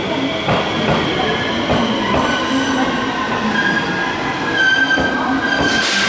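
Electric train moving along the station tracks, its wheels knocking over rail joints and points with a steady high wheel squeal that grows stronger in the second half. A short hiss comes near the end.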